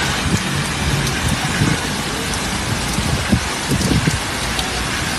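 Torrential rain pouring down in a storm, a dense steady hiss with irregular low rumbles underneath.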